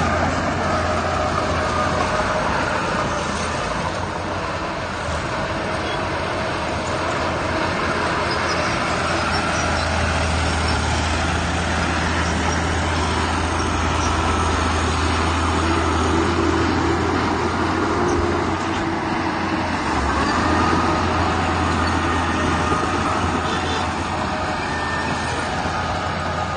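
Heavy diesel earthmoving machinery running steadily, a continuous low engine drone under broad mechanical noise.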